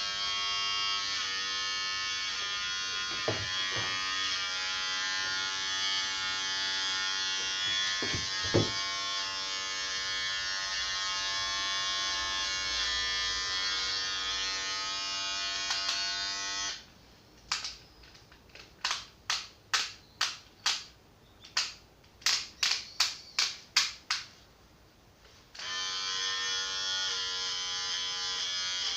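Electric hair clippers buzzing steadily while cutting hair. About 17 seconds in they switch off, and a run of about a dozen sharp clicks follows before the clippers start buzzing again near the end.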